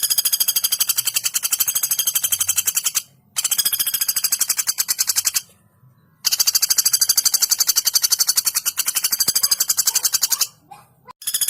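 Female common flameback woodpecker giving loud, fast rattling trills, long unbroken runs of rapid notes. Three long trills are broken by short pauses, and a fourth starts near the end.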